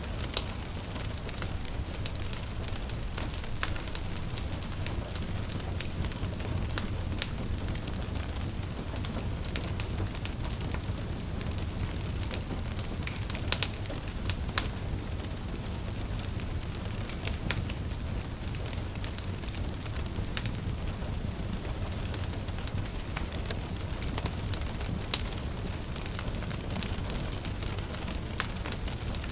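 Log fire crackling with irregular sharp pops, a few louder than the rest, over a steady low rumble, mixed with the even patter of gentle rain.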